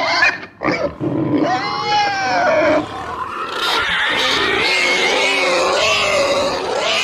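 Animal roars and grunts, loud and continuous, gliding up and down in pitch, with a short break under a second in and a change in the calls about three seconds in.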